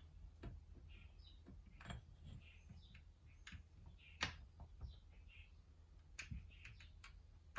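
Near silence broken by a few faint, scattered clicks and taps: small metal engine parts being handled as the cam tower goes onto the cylinder head.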